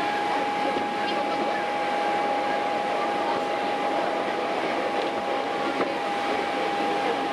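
Hankyu Kyo-train running along the line, heard from on board: a steady rumble of wheels on rail with a steady high tone running through it.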